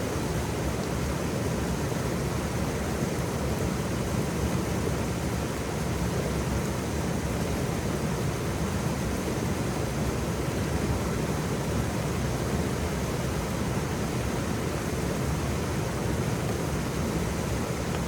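Waterfall: a steady, deep, even rush of falling water, with no separate splashes or changes.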